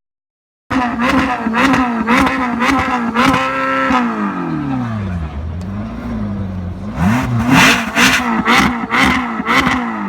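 Sports car engine revved in quick throttle blips, held high, then falling away, followed by another run of sharp blips with cracks from the exhaust. It starts after a moment of silence.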